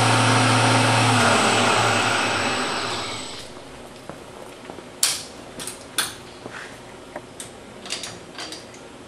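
A mains-powered electric motor machine running with a steady hum and a high whine, winding down and stopping about three seconds in. Afterwards a handful of sharp clicks and taps.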